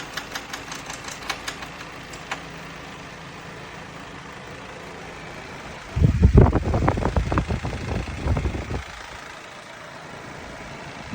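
A steady mechanical hum with a run of sharp clicks in the first couple of seconds. About six seconds in, a loud low rumbling with rapid knocks takes over for about three seconds, then the hum goes on alone.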